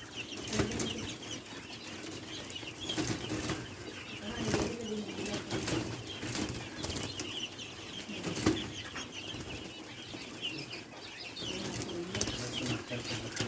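Caged quail moving about, with scattered wing flutters and knocks and a run of short, high chirps.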